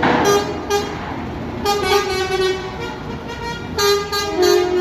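Truck horns honking in a series of blasts: two short toots near the start, a longer blast around the middle, and two more toots near the end.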